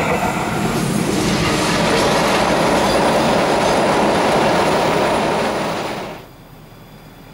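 Passenger train running over a steel truss bridge, a steady, loud rumble of wheels on rail. It drops off sharply about six seconds in to a much quieter outdoor background.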